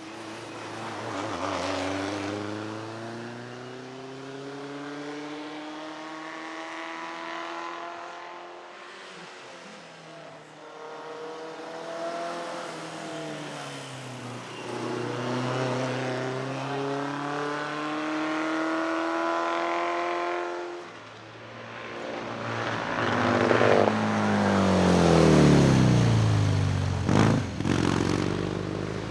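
Vintage racing car engine accelerating hard, its pitch climbing through three or four gears with a brief dip at each change. Near the end it comes louder and closer, and its pitch falls as it passes, with a sharp crack just before the end.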